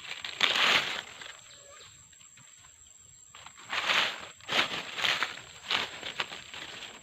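Footsteps crunching and rustling through dry leaves and undergrowth: a short burst of steps, a pause, then a run of steps about twice a second.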